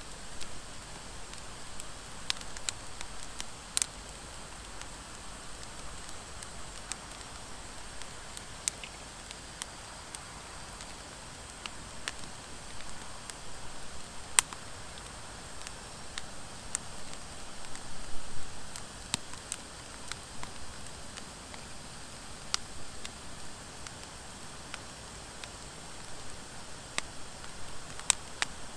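Driftwood and dry hardwood logs burning in a fire pit: a steady hiss with scattered sharp crackles and pops, one louder pop about halfway through.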